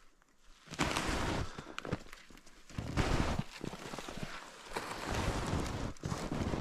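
Footsteps and rustling through brush, loud and irregular, starting about a second in.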